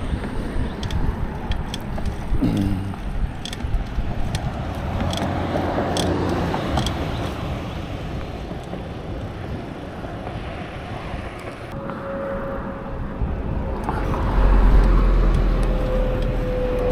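Road traffic heard during a bicycle ride, over a steady low rumble of wind on the microphone. A vehicle passes near the end, bringing the loudest swell and a steady whine that sinks slightly in pitch.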